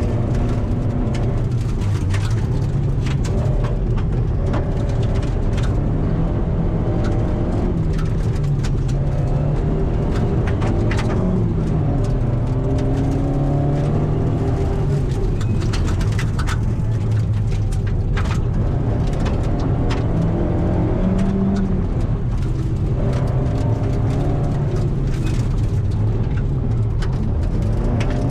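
Ford Escort hill-climb car's engine heard from inside the cabin, its pitch climbing under hard acceleration and dropping again over and over through gear changes and braking. Sharp knocks and rattles come through the shell throughout.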